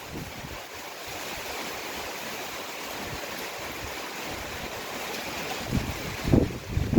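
Heavy downpour of rain, a steady hiss. Close to the end, gusts of wind start hitting the microphone in short, uneven low rushes.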